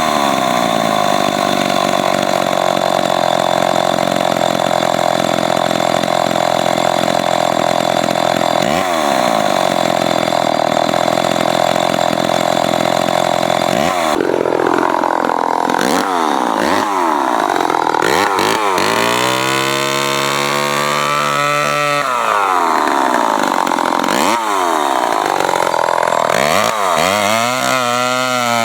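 Remington SL9 two-stroke chainsaw engine running at high revs, steady for about half the time, then its revs drop and rise again several times in quick succession.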